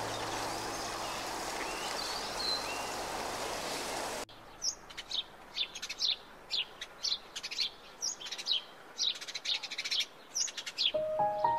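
A steady rushing outdoor noise with faint bird calls, cut off suddenly about four seconds in and replaced by a small songbird chirping: short, high chirps falling in pitch, about two a second.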